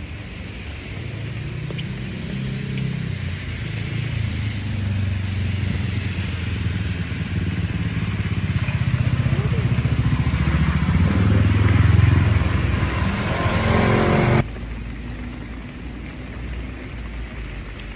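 A motor vehicle's engine hum, growing steadily louder as it approaches, over a steady hiss of rain; the sound cuts off suddenly about fourteen seconds in, leaving only the rain.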